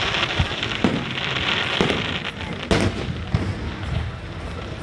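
Aerial fireworks display: a series of shell bursts, about six bangs with the loudest about two and a half seconds in, over a steady crackle through the first two seconds.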